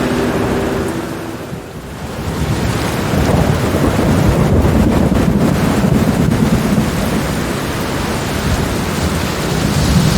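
Steady rain with a long rolling rumble of thunder that swells about two seconds in and keeps rumbling.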